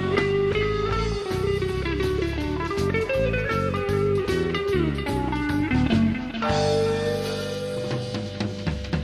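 Country rock band playing an instrumental passage: guitar over bass and drum kit. About six and a half seconds in it settles into a held chord that thins out and drops in level near the end.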